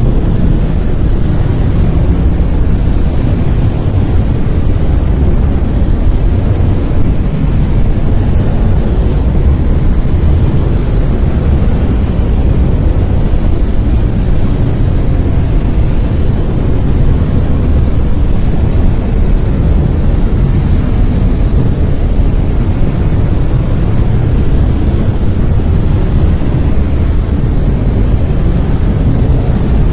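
Brown noise: a steady, deep rushing noise, loudest in the low end, with no changes.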